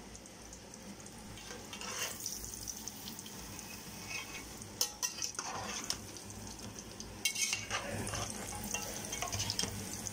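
Pieces of floured pork belly sizzling as they fry in hot oil in a metal pan, with metal tongs clicking against the pan a couple of times. The sizzle gets louder from about seven seconds in.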